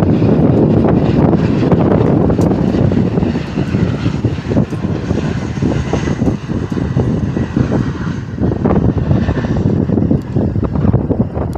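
Airplane engines, loud and steady, as an aircraft passes near the runway, easing off slightly in the last few seconds, with wind on the microphone.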